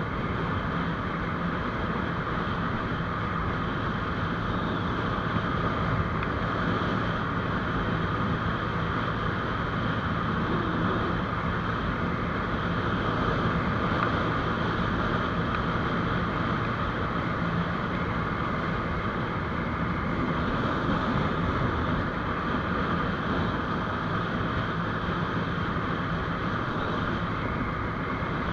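GPX Demon GR200R's single-cylinder engine running steadily while the motorcycle cruises, with wind and road noise mixed in.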